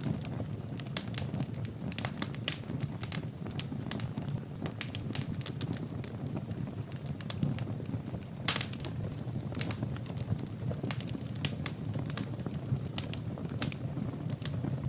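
Wood fire burning in a fireplace: a steady low rumble of flames with frequent irregular crackles and pops, one louder pop about eight and a half seconds in.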